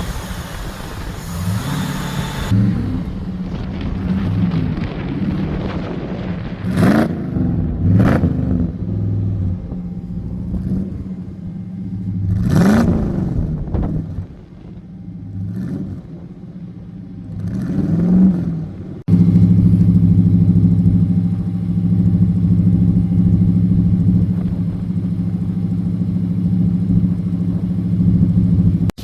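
Built 350 cubic-inch V8 with Magnaflow dual exhaust idling and being revved in short blips, about four times. About two-thirds of the way in, the sound changes abruptly to a steady, louder run.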